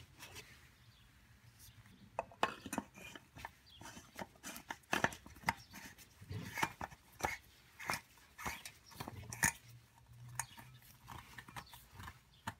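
Irregular clicks and clinks of hard parts and tools being handled while the primed oil filter cartridge housing is refitted, over a faint low hum.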